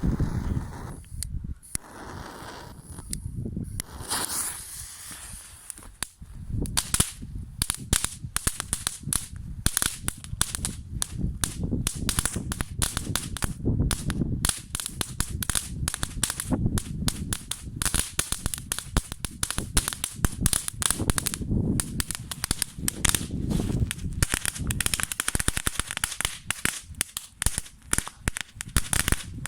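Small firework fountain burning: a few seconds of quieter hissing, then dense, rapid crackling pops that carry on steadily.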